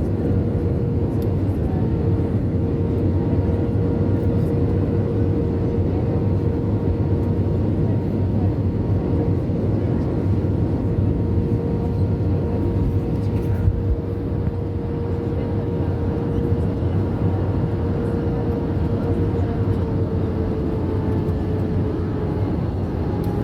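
Airbus A320-family airliner cabin noise: a steady rumble with a steady engine whine that sags slightly in pitch near the end.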